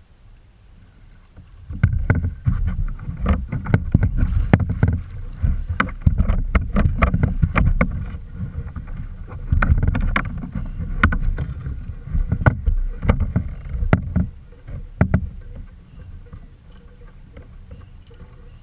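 Irregular knocks and bumps on a kayak, over low rumbling and handling noise, as a hooked musky is fought from it. The knocking starts about two seconds in and dies down near the end.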